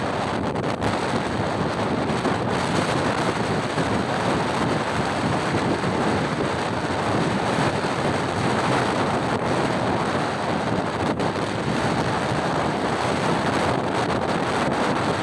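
Steady wind rushing over the microphone of a moving motorcycle, a continuous noise with a few brief buffeting knocks.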